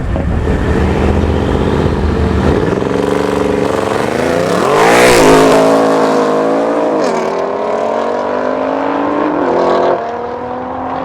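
Tuned car engine accelerating hard, its pitch repeatedly climbing and dropping. It is loudest about five seconds in, with a burst of hiss at the peak.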